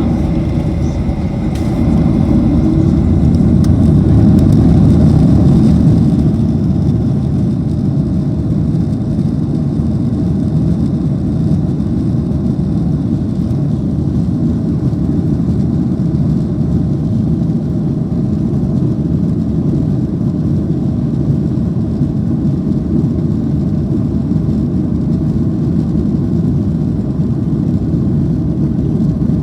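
Boeing 737-800's CFM56 jet engines running, heard from inside the cabin as a steady low rumble that swells a little around five seconds in.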